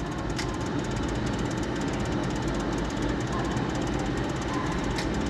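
Slot machine counting up a bonus win in credits: a rapid, steady rattle of ticks, with a sharp click about half a second in and another near the end.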